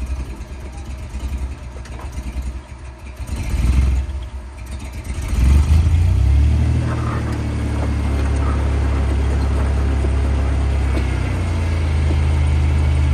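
Off-road vehicle's engine running at a low crawl, then revved up about five seconds in and held at a steady higher speed as it climbs the rocky trail.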